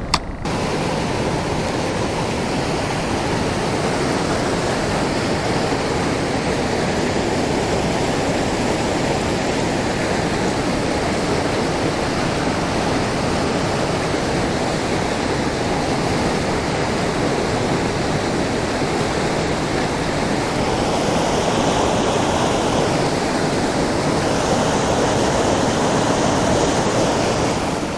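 Steady rushing of river water flowing over rocks or a riffle, an even hiss-like wash with no pauses, starting abruptly just after the start.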